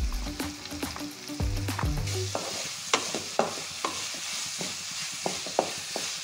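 Sliced onions and ginger-garlic paste sizzling in oil in a metal kadai, stirred with a wooden spatula that scrapes and knocks against the pan many times.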